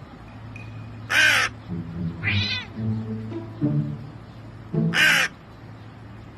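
A crow cawing twice, harsh loud calls about four seconds apart, with a cat giving one rising-and-falling meow between them. Background music with low, steady notes runs underneath.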